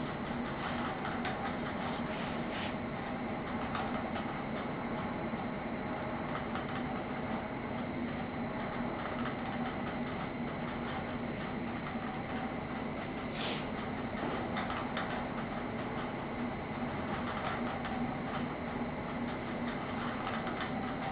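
No. 1 machine running under 30–60% load, giving a steady, high-pitched whine over a lower hum: the abnormal noise it makes at this load.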